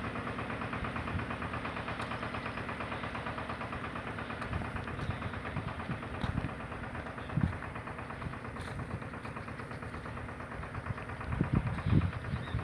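Eicher 188 mini tractor's single-cylinder diesel engine running steadily with a fast, even putter while it drives an irrigation water pump. A few low thumps come through about halfway and again near the end.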